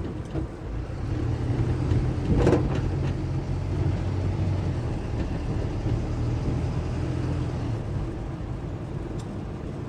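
Car engine running steadily, a low hum heard from inside the car, with one short sharp knock about two and a half seconds in.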